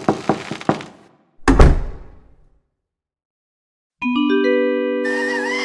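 Knocking on a door, a quick run of about eight knocks, then a single heavy thud about a second and a half in, like the door shutting. About four seconds in, a chime of several held tones starts, joined near the end by a rising whistle-like tone.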